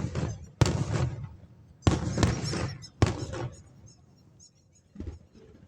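Aerial firework shells bursting: four sharp bangs about a second apart over the first three seconds, each dying away in a short rumbling tail, then a fainter bang near the end, with light crackling in between.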